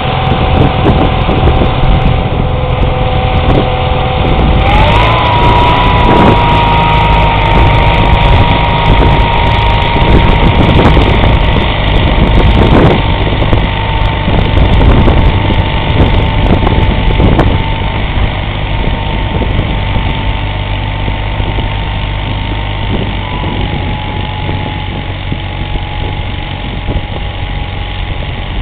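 1979 Case 446 garden tractor's engine running steadily with its snowblower, over a loud rumbling noise. A steady whine rises in pitch about five seconds in and then holds.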